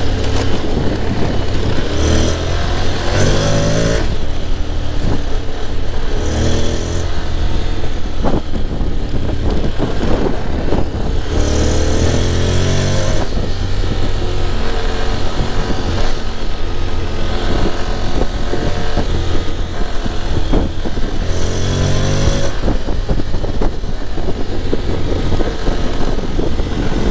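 Honda X-ADV's 745 cc parallel-twin engine heard from the rider's seat, accelerating several times with the pitch rising, then dropping back as the DCT gearbox shifts up. A steady low rumble of road and wind noise runs underneath.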